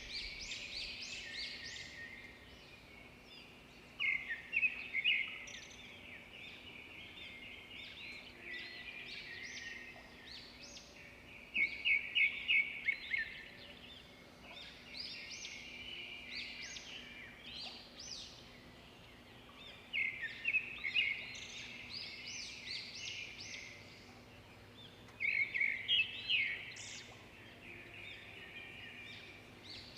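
Wild birds chirping and twittering without a break, with four louder bursts of rapid, repeated trilled notes spread through the clip.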